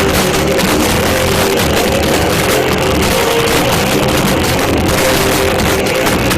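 Live rock band playing loud, with electric guitar and drums, recorded with badly distorted sound.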